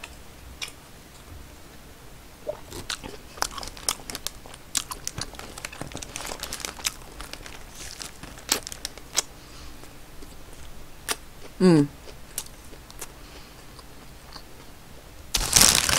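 Close-miked chewing of a Burger King Red Snow Crab Whopper, with soft crunches, wet mouth clicks and the paper wrapper crinkling. A brief hummed vocal sound comes about twelve seconds in, and a louder burst of crinkling near the end.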